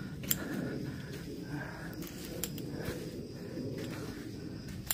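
Rain in mountain forest: a steady low hiss, with a few sharp ticks.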